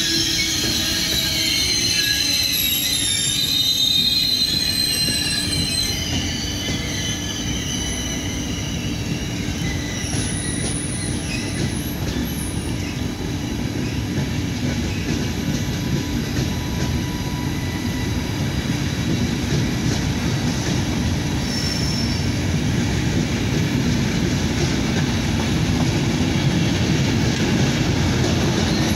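Trenitalia Intercity train of passenger coaches, pushed by an E401 locomotive, rolling past on the track. Its wheels squeal in high tones for the first several seconds, then fade to a steady rolling rumble.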